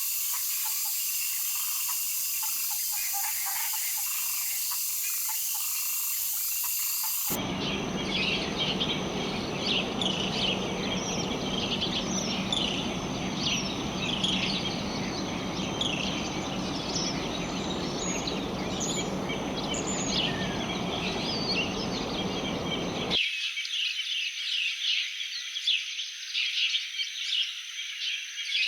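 Rainforest ambience of many frogs and insects calling, with bird chirps mixed in, as dense overlapping chirping. It changes abruptly twice, about seven and about 23 seconds in, and the middle stretch has a steady rushing noise underneath.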